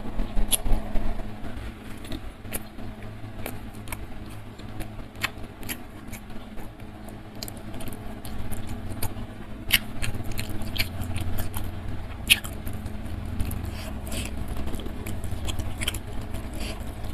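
Close-miked chewing and mouth sounds of a person eating by hand, with irregular sharp clicks and smacks scattered through, one louder click about twelve seconds in.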